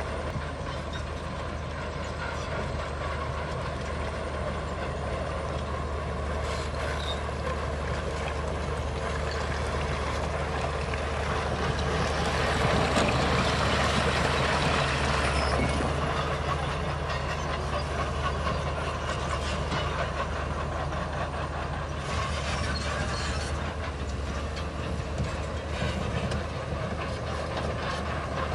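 Heavy diesel earthmoving machinery working, the engine running steadily under a clattering, metallic racket, growing louder for a few seconds near the middle.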